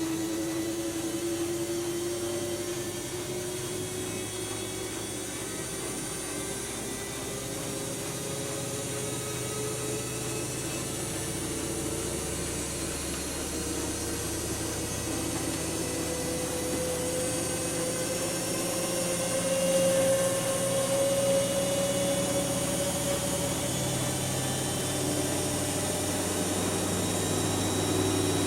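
Siemens Siwamat iQ 716 washing machine's drum motor speeding up slowly, its whine rising steadily in pitch and growing a little louder over about twenty seconds, as the drum winds up toward spin.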